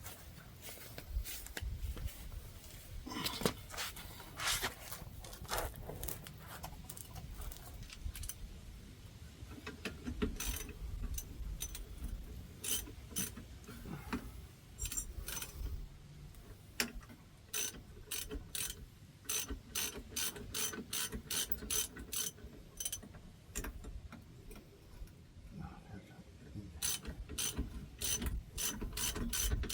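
Hand ratchet wrench clicking in irregular runs of sharp ticks as fasteners are turned.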